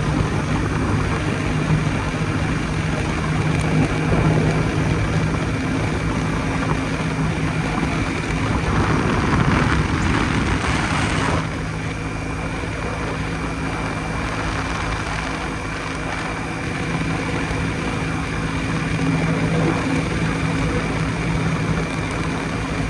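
Jawa 250 type 559 single-cylinder two-stroke motorcycle engine running at a steady pace on the road. A louder rushing noise joins it from about nine seconds in and cuts off abruptly a couple of seconds later.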